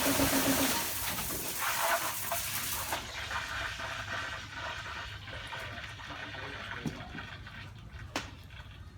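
A running motor cuts off just under a second in, leaving water hissing and splashing. The splashing dies down after about three seconds into quieter trickling, with a couple of sharp knocks near the end.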